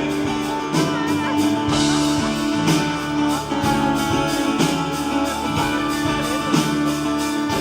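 Gospel worship band playing an instrumental passage between sung lines: guitar and keyboard chords over a steady beat.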